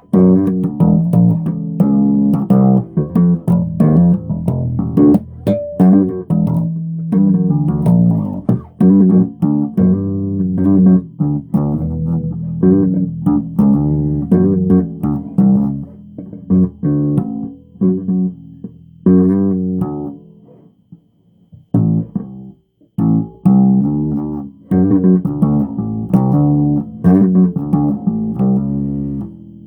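Solo bass guitar played with plucked notes and short runs, pausing briefly about two-thirds of the way through before the playing picks up again.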